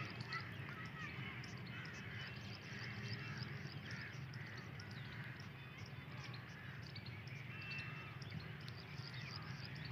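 Faint birds calling and chirping on and off, over a steady low hum.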